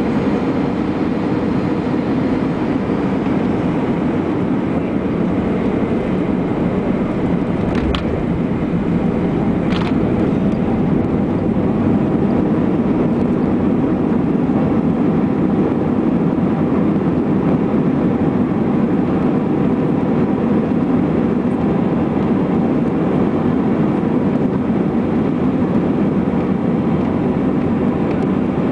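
Steady rumble of an Airbus A321's engines and airflow, heard inside the passenger cabin during the landing, with two brief sharp clicks about 8 and 10 seconds in.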